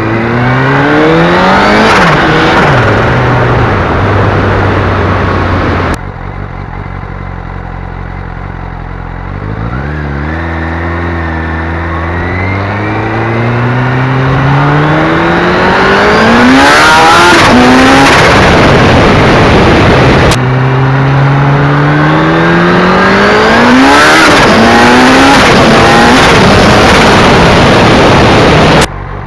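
Turbocharged Suzuki GSX750F Katana motorcycle engine revved up again and again, its pitch rising and then dropping sharply each time the throttle closes. The turbo flutters on each drop because the blow-off valve has been removed. Several separate takes are joined by abrupt cuts.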